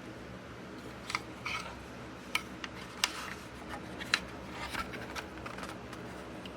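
A series of small sharp plastic clicks, spread over several seconds, from the power button of a battery-operated mini clip fan being pressed and the fan being handled. A faint steady hum runs underneath.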